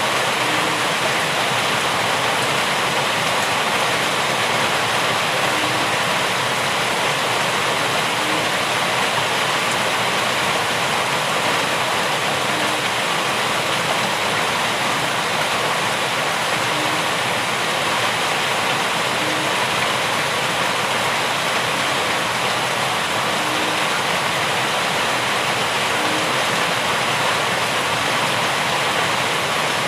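Steady heavy rain falling, an even hiss with no change in strength, and faint short low blips every two or three seconds.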